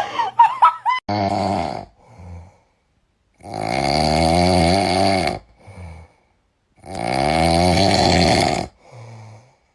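Loud snoring: two long, rasping snores of about two seconds each, with shorter, quieter breaths between them.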